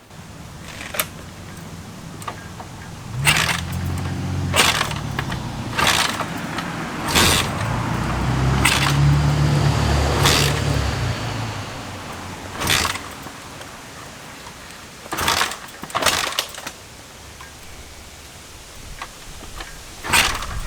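1975 Honda CB550's four-cylinder engine being turned over in attempts to start it: a short spell of cranking, then a longer one of about three seconds, among sharp mechanical clacks. The engine is struggling to start.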